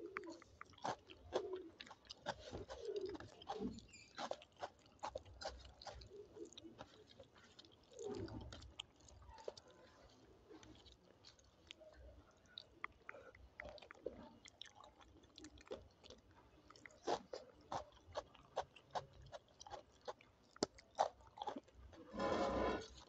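Close-up eating of dal, rice and papad: chewing with many short, sharp mouth clicks and soft wet sounds. A short pitched sound comes near the end.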